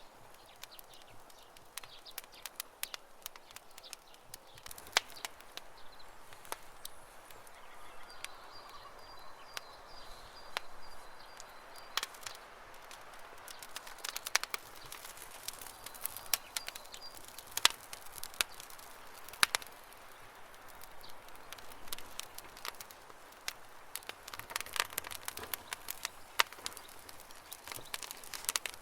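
Campfire wood crackling, with irregular sharp pops. A bird's faint high trill comes in twice.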